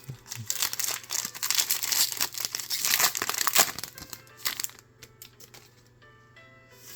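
Foil Pokémon booster pack wrapper being torn open and crinkled, dense rustling and tearing for about four and a half seconds before it dies down, leaving faint background music.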